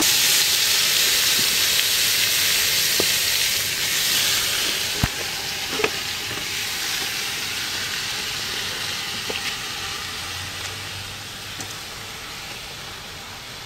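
Raw chicken pieces sizzling loudly in hot oil and fried curry paste in a pot, the sizzle slowly dying down as the meat cools the pan. A few light knocks of a utensil come partway through.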